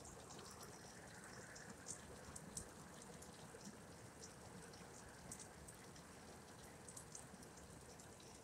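Faint, steady hiss of heavy rain falling, with scattered sharp ticks of individual drops striking close by.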